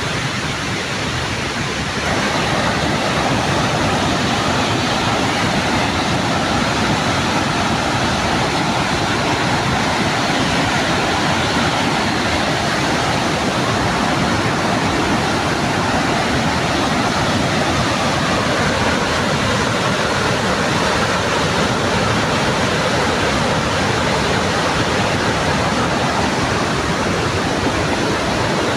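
Steady rushing roar of Victoria Falls, the Zambezi's water pouring into the gorge. It grows a little louder about two seconds in and then holds even.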